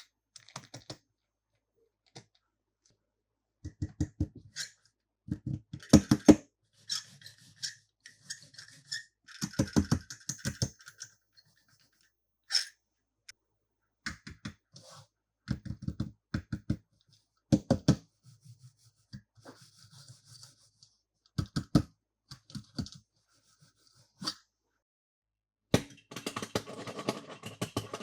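Plastic toy cars and packaging being handled: short bursts of rapid clicking and rattling with crinkly rustles between, turning into denser continuous clicking near the end.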